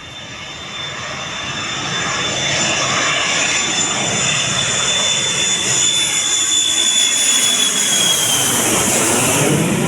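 Boeing 737 jet engines growing steadily louder as the airliner approaches, a high turbine whine over the engine noise, dipping slightly in pitch about eight seconds in as it passes.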